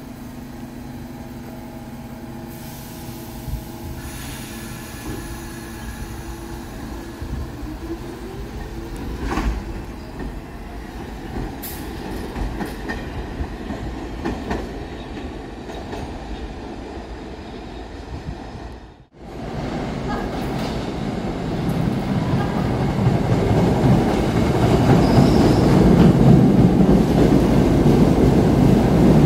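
New York City subway train on the Sea Beach Line: steady motor hum with a tone that glides upward around the first third, then, after a brief drop-out, the rumble and clatter of wheels on rail growing louder as a train comes in, loudest near the end.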